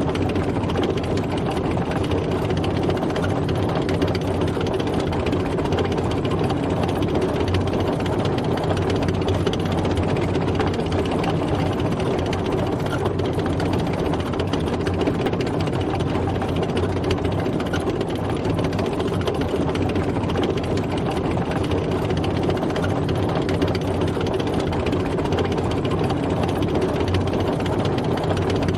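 Tank driving, its heavy engine running steadily at an even level.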